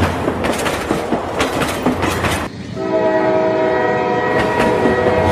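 A train running with a rhythmic clatter of wheels over rail joints, then its horn sounding a sustained multi-note chord from about halfway through, held to the end.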